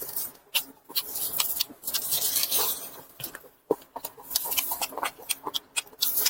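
Close-miked chewing of braised pork, with wet, sticky mouth smacks and clicks in quick, irregular succession. There is a longer sucking or slurping hiss about two and a half seconds in.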